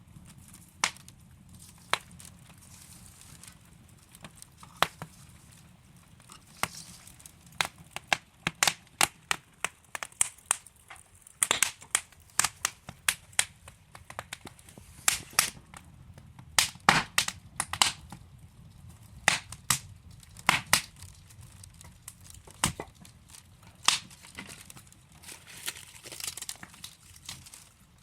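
Burning wood logs crackling in a fireplace: irregular sharp pops and snaps over a low, steady hiss, thickest in the middle.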